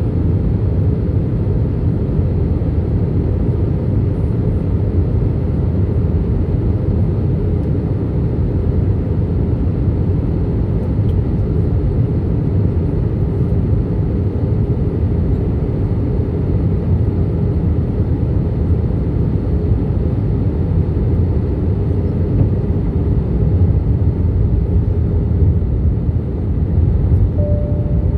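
Steady low rumble of a passenger airliner's engines and airflow on the approach to landing, heard from inside the aircraft, with a short tone sounding once near the end.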